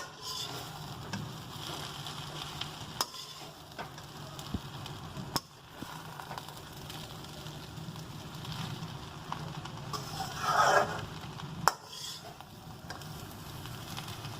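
Food sizzling in a hot frying pan while being stirred, with sharp clicks and scrapes of the cooking utensil against the pan and a louder stretch of stirring about ten seconds in.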